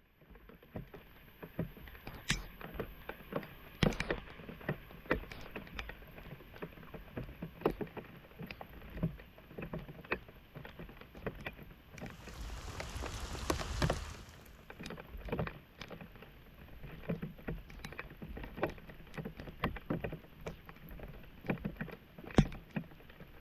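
Floodwater splashing and sloshing with scattered knocks as debris is cleared from a clogged street drain, with a louder rush of water about twelve seconds in that lasts a couple of seconds.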